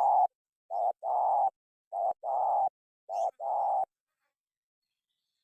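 Spotted dove cooing: a string of two-part coos, each a short note followed by a longer held note, about one a second, stopping about four seconds in.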